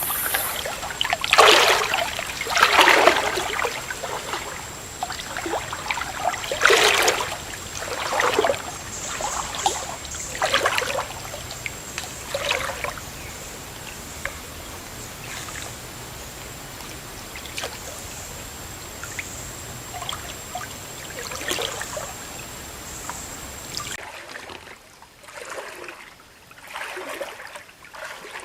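Water splashing and sloshing in repeated bursts every second or two, with trickling between them; the splashes grow sparser after about twelve seconds.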